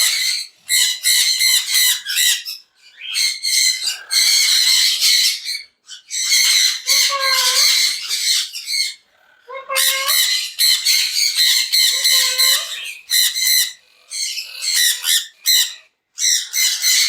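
Green monk parakeets (Quaker parrots) squawking loudly in a string of harsh screeches, each about a second long, with short breaks between them.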